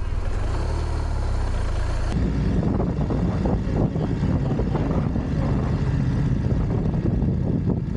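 Motorcycle riding: engine running steadily with wind and road noise. About two seconds in, the sound changes abruptly and becomes louder and rougher.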